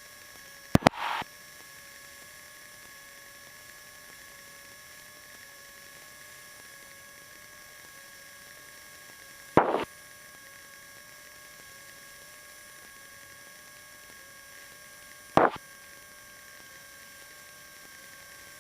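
Faint steady electrical hum and whine in the cockpit's intercom and radio audio, broken three times by a short loud crackle or pop. The crackles come about a second in, about ten seconds in, and near the end.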